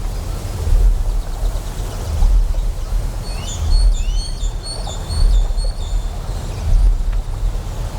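Deep generator hum, pulsing as it swells and fades a little more than once a second, under a steady hiss of flowing water. From about three seconds in, a bird chirps in quick, repeated high notes and short sweeps for a few seconds.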